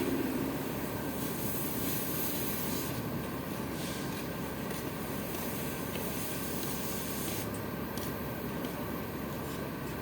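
Truck engine running steadily, with a hiss in the highs that comes and goes.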